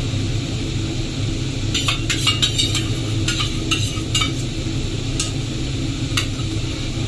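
A spoon stirring thick masala in a frying pan, scraping and knocking against the pan in a quick run of strokes about two seconds in and a few single knocks later, over a low steady sizzle of the paste frying.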